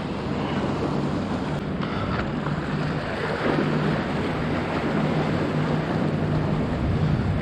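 Ocean surf washing on the beach, with wind buffeting the microphone and a steady low hum underneath.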